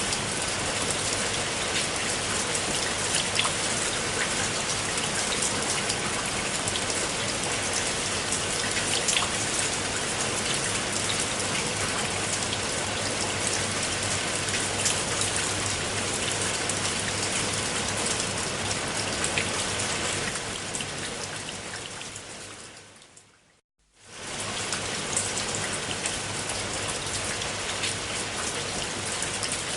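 Steady rain falling on a surface, with distinct drops clicking through it. About two thirds of the way through it fades away to a moment of silence, then comes straight back at full strength.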